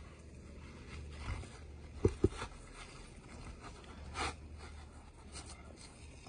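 Hand work on asphalt roof shingles: two quick knocks a fraction of a second apart about two seconds in, then a scrape and smaller rustling and clicking.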